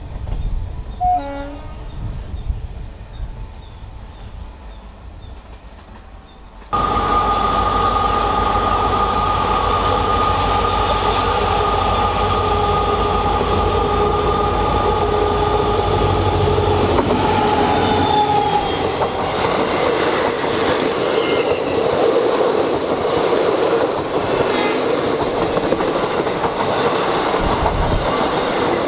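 Passenger express train passing close by after a quieter low rumble. About a third of the way in the sound jumps suddenly to a long, steady horn blast over the loud rumble and rattle of the train on the track. After the horn stops, the train keeps rumbling and clattering past.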